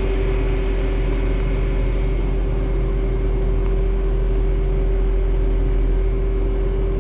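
Bobcat S650 skid steer's diesel engine running steadily. A steady whine sits over a deep, even drone.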